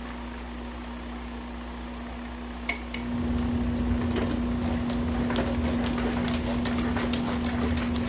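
Small RV washing machine running its wash cycle on a high water level, with a steady motor hum. About three seconds in there are two sharp clicks, then the agitation picks up louder, with water churning and small rattling ticks.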